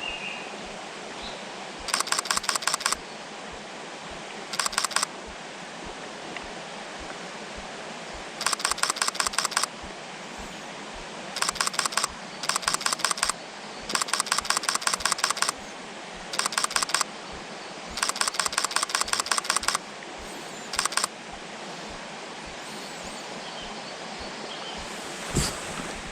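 Camera shutter firing in rapid continuous bursts, about nine bursts of fast, even clicks, each lasting up to a couple of seconds, over a steady rushing background. A single soft thump near the end.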